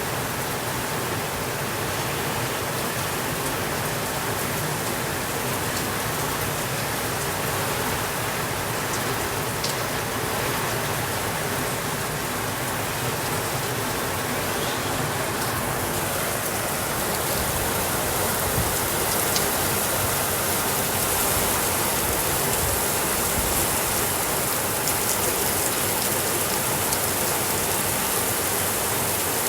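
Steady rain falling in an even hiss, with scattered sharp drop ticks, growing slightly louder in the second half.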